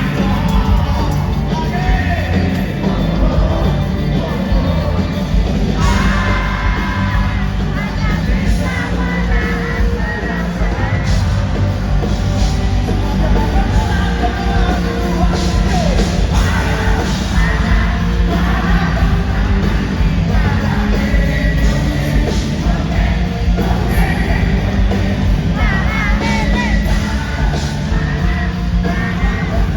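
Live pop-rock band playing loudly with a lead singer, with strong bass and drums, and yelling voices in a large indoor hall.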